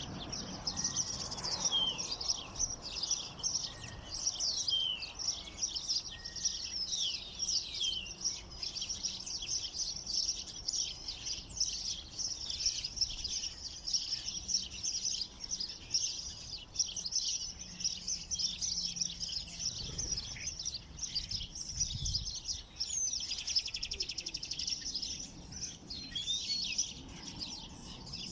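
Many small songbirds chirping and twittering at once, a dense, unbroken chorus of short high calls and quick up-and-down notes.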